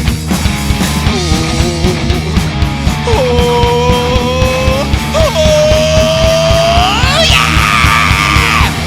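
Live rock band playing over a steady beat, with a lead line of long held, bending notes that climbs to a high, wavering wail near the end.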